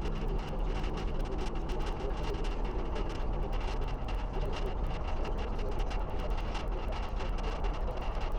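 Steady road rumble and wind noise from a motorcycle trailer being towed, with constant small rattles and knocks as it bounces over the road.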